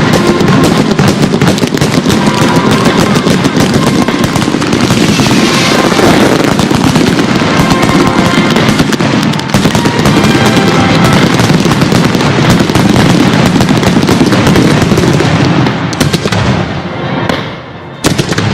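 Fireworks display in a dense, rapid barrage of bangs and crackles, with show music playing underneath. The barrage thins out near the end, with one last sharp bang.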